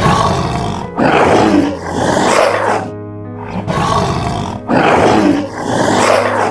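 A big cat roaring: a loud series of three rough roars, repeated the same way a second time, over soft background music.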